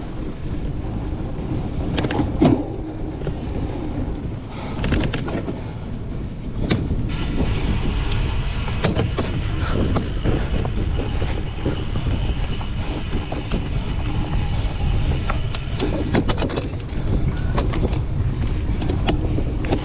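Riding noise from a cyclocross bike being raced over rough ground: wind rushing over the microphone and tyres rumbling, with scattered knocks and rattles from bumps.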